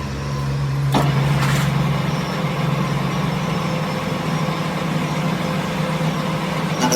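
A large engine idling steadily, with a sharp click about a second in.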